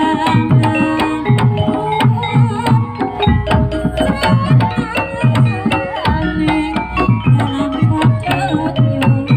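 Live Javanese gamelan music: kendang hand drums playing quick strokes whose pitch drops, over held ringing metallophone tones.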